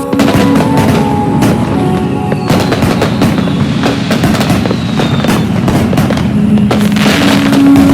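Dense New Year firecrackers and fireworks going off continuously: many sharp cracks and pops overlapping. Long held tones sound over them, and the loudest stretch comes near the end.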